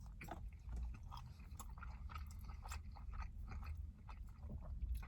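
Close-up chewing of loaded asada fries with chicken and cheese sauce: many small irregular mouth clicks. The fries are soft rather than crunchy, being soggy under the toppings.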